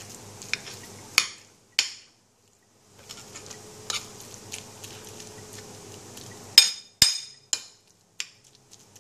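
Utensils clinking against a dish: a string of sharp clinks with a brief high ring, the two loudest close together near the end.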